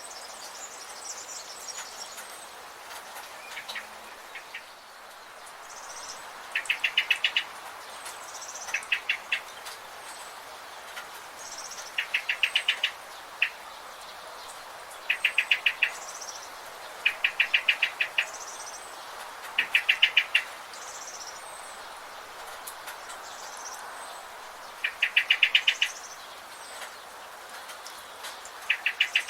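Wild birds calling: one bird repeats a short, fast trill of rapid notes about every two to three seconds, with softer, higher short chirps from other birds in between, over a steady hiss of background noise.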